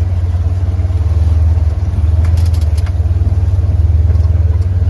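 Off-road vehicle's engine running with a steady low drone while it drives the trail, with a few short clicks and rattles about halfway through.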